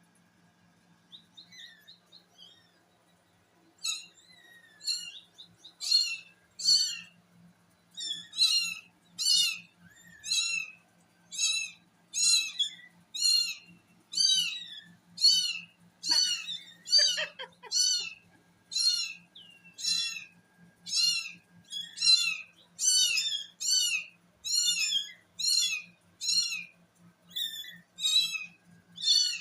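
Kitten mewing: high-pitched, repeated calls, about one a second, starting a few seconds in and keeping on steadily.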